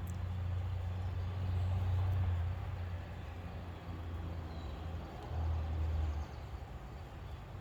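Low engine rumble of a motor vehicle running nearby, swelling and easing a couple of times.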